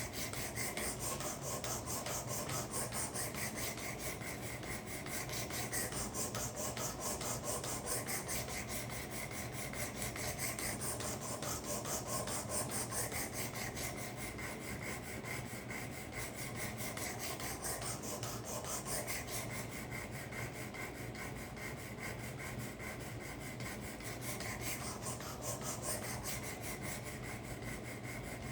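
Hand-stroked 320-grit abrasive plate of a Work Sharp guided sharpener rasping back and forth along a karambit blade in continuous, closely spaced strokes, refining the bevel and raising a burr.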